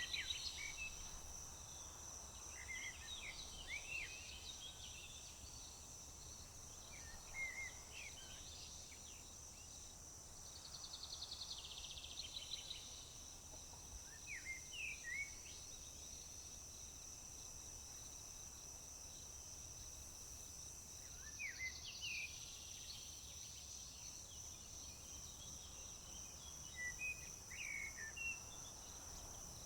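Crickets chirping in a steady high drone, with scattered short bird chirps and calls. A buzzy trill comes three times, about ten seconds apart.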